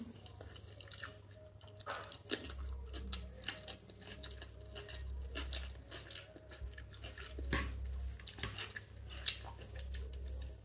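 Close-miked chewing of chicken biryani, with many small wet mouth clicks and smacks at an irregular pace.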